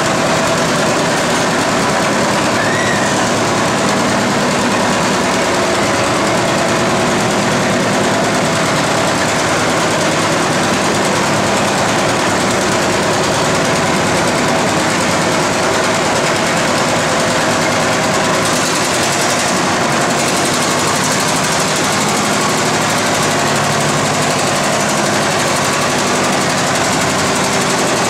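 Antique farm tractor engine running steadily and loudly, with no breaks or changes in pitch.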